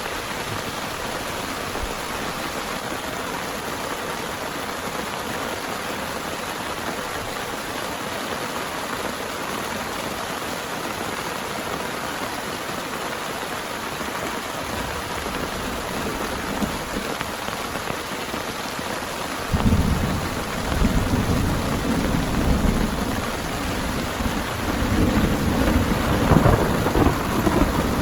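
Heavy rain falling steadily. About two-thirds of the way through, a low rumble of thunder breaks in suddenly and keeps rolling, swelling again near the end.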